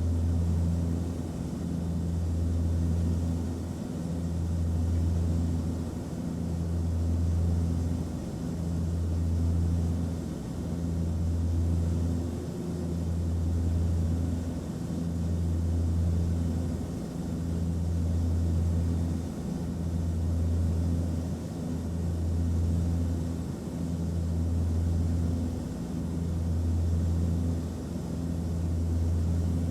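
Airplane cabin noise in flight: a steady rushing of air over a deep engine drone. The drone swells and dips regularly, about every two seconds.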